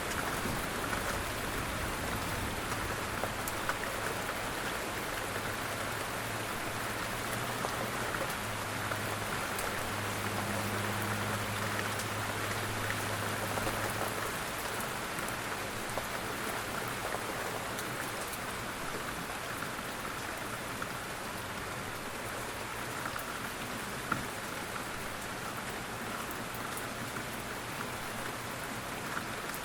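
Steady rain falling on surfaces, with separate drops ticking now and then. A faint low hum comes and goes during the first half.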